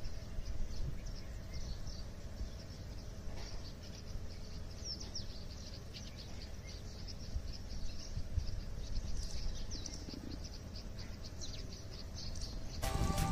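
Outdoor ambience: small birds chirping over and over in short high calls, over a steady low rumble. Music starts suddenly near the end.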